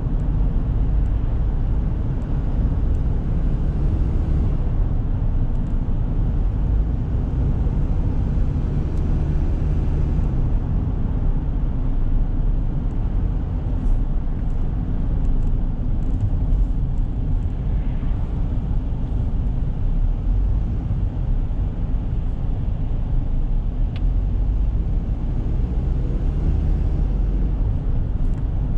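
Toyota Granvia van under way, its 1KZ-TE 3.0-litre turbo diesel running with steady road rumble at a constant speed.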